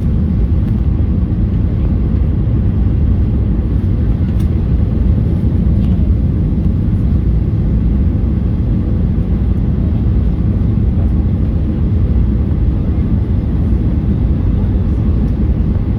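Steady low rumble inside the cabin of a Boeing 737-800 airliner: its CFM56 jet engines and the airflow over the fuselage, heard from a window seat beside the wing.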